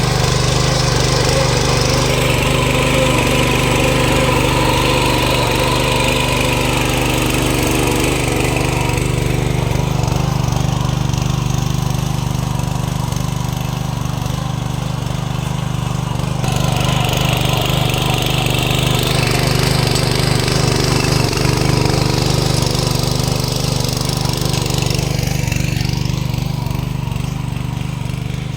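A 7.5 hp four-stroke petrol engine on a power weeder (rotary tiller) running steadily with a rattling mechanical clatter. Its higher noise swells and eases a little at times while the engine note stays even.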